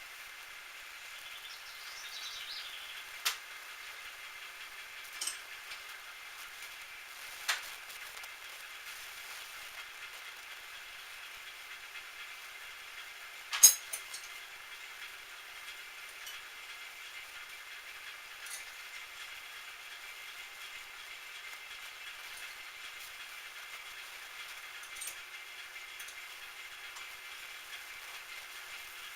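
Metal lathe running with a steady hum, broken by a handful of sharp metallic clicks and knocks, the loudest about fourteen seconds in.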